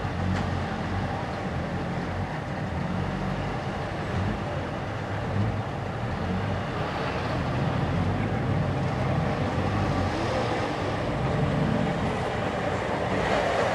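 Old cars' engines running as they drive slowly over cobbles, with a Trabant's two-stroke twin engine getting louder as it passes close near the end.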